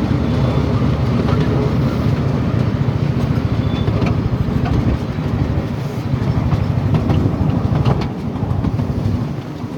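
Train rolling along the track, heard from aboard a carriage: a steady low rumble with fine ticking from the wheels and rails.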